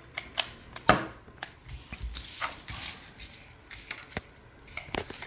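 Handling noise: scattered light clicks and taps of small hard parts being moved about, the loudest knock about a second in.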